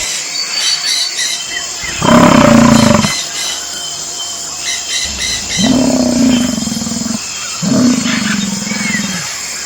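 Bison bellowing three times, low drawn-out roars of about a second to a second and a half each, with birds chirping in the background.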